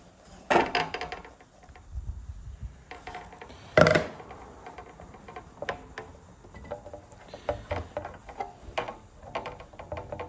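Knocks and clicks from handling a track saw's guide rail and clamp while setting them on a door, with two loud knocks, about half a second and four seconds in, among lighter taps.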